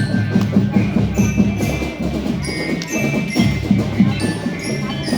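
School drum band playing: rapid, dense marching drums come in sharply at the start, under a high ringing melody on bell lyra.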